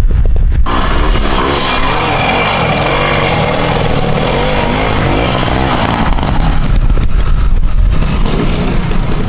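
Classic trial motorcycle engine revving up and down, its pitch rising and falling over and over as the throttle is worked, starting suddenly about half a second in and easing after about six seconds.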